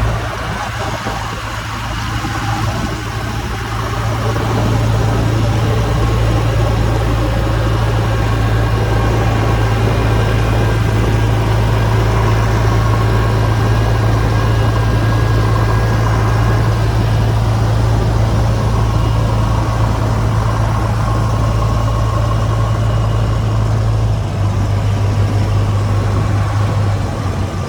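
JCB 3DX backhoe loader's diesel engine running steadily at a constant speed, its note stepping down slightly near the end.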